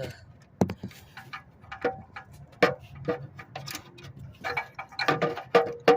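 Metal hand tools clicking and clinking, a ratchet and socket knocking against metal as they are worked on a seized oxygen sensor. There are sharp metallic clicks with a short ring, spaced out at first and bunching into a quick cluster near the end.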